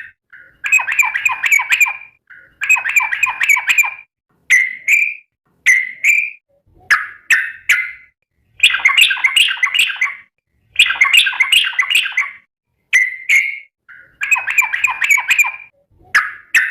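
Yellow-vented bulbul (trucukan) singing loudly. It gives bursts of rapid, bubbly chattering notes about a second long, alternating with short single liquid calls and brief pauses. This is the fast, long-phrased song ("ropel panjang") of a bird in full voice ("gacor").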